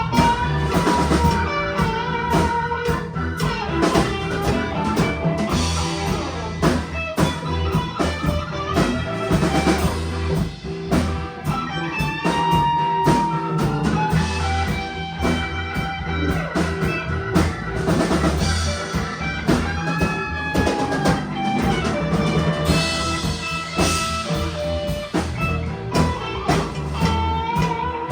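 A band playing an instrumental passage: guitar over a drum kit keeping a steady beat, with no singing.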